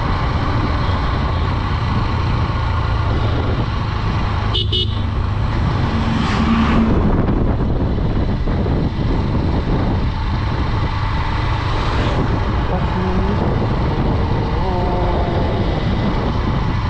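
Honda Dream 110 110cc motorcycle running along a road at steady speed, with heavy wind rush on the helmet microphone. A horn toots briefly about six and a half seconds in.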